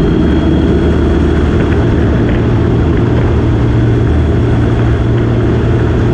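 Motorcycle engine running steadily while riding, a low even drone under a broad rushing noise.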